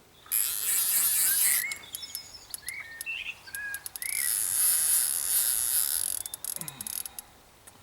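Small birds chirping, several short calls rising and falling in pitch. These sound over two loud stretches of high hiss and rapid clicking, one near the start and one in the middle.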